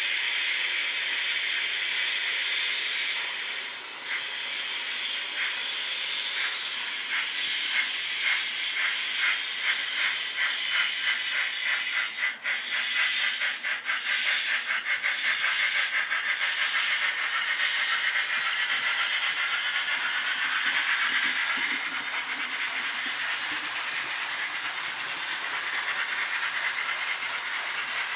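Steam-locomotive sound from a sound-equipped H0 model locomotive: a steady hiss of steam, then a run of chuffs that quicken, settling back into hiss.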